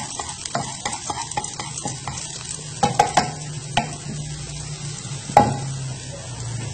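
Sliced shallots sizzling in hot oil in a nonstick frying pan as they fry toward golden, stirred with wooden chopsticks that click against the pan. A few sharper knocks about three and five seconds in, over a low steady hum.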